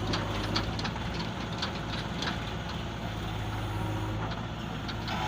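Heavy diesel engine running steadily with a low hum, with scattered short clacks and knocks over it.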